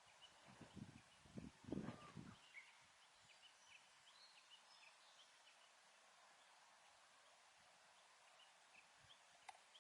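Quiet outdoor ambience with scattered faint bird chirps. A few low thuds and rumbles come in the first couple of seconds.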